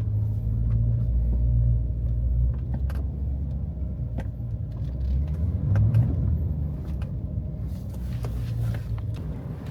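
Chevrolet Corvette C8's V8 engine running during a slow drive, a steady low rumble with a few faint ticks; the body creak being tested for does not occur.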